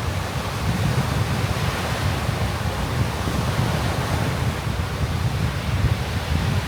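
Surf washing onto a sandy beach, half buried under wind buffeting the microphone as a heavy, fluttering low rumble.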